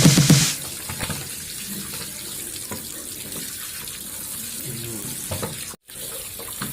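Water running steadily from a tap, cutting out for an instant near the end.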